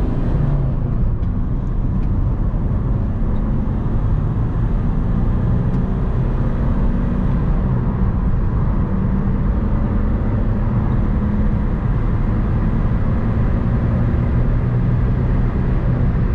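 Chevrolet Cruze's diesel engine droning steadily as the car is pulled hard at highway speed. Tyre and wind noise can be heard inside the cabin.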